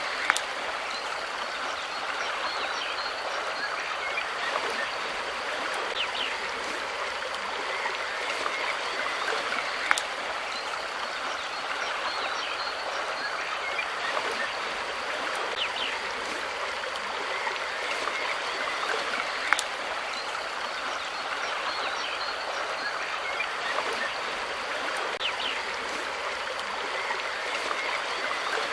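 Steady rushing water, like a flowing stream, with faint chirps over it. A sharp click stands out about every ten seconds.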